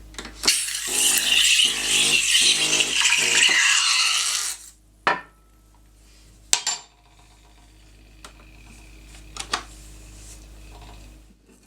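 Steam wand of a DeLonghi Dedica espresso machine blowing steam for about four seconds to purge and clean it, a loud hiss that cuts off. A few sharp clinks and knocks follow.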